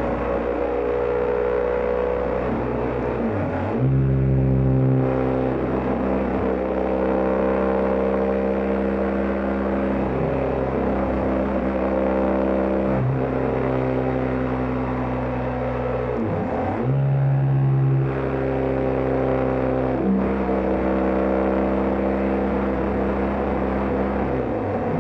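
BMW GS Adventure motorcycle engine running at road speed. Its pitch dips and recovers several times as the rider shifts gear or changes throttle, with steady wind and road noise throughout.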